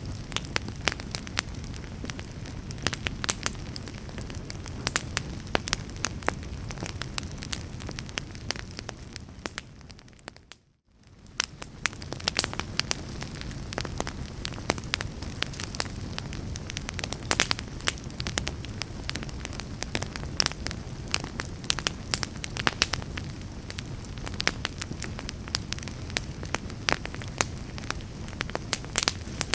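Wood logs burning in a fireplace: a steady low rumble of flame with frequent sharp pops and crackles. About ten seconds in, the sound fades almost to nothing for a moment, then comes back.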